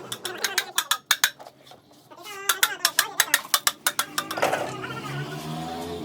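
Metal tools clinking and tapping on engine parts: a few scattered taps, then a quick run of about six taps a second. A steady hum follows near the end.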